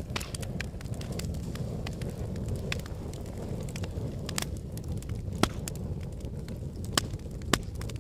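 Wood fire of burning logs crackling: a steady low rumble of flames with scattered sharp pops and snaps, the loudest pops about five and a half, seven and seven and a half seconds in.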